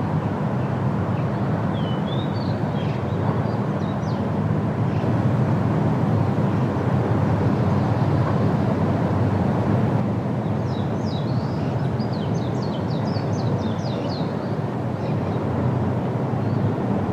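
Steady wind rushing through leafy trees, with small songbirds chirping over it: a few scattered high chirps in the first few seconds, then a quick run of high notes about ten seconds in that lasts a few seconds.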